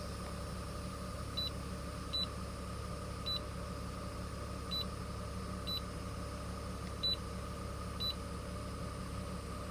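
2005 Honda Odyssey's V6 engine idling with a steady low hum. A short, high electronic beep sounds seven times over it at uneven intervals.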